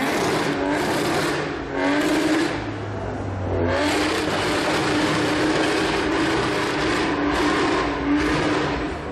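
Supercar engine revving, its pitch rising in quick sweeps a couple of times, then holding a steady high note for about five seconds.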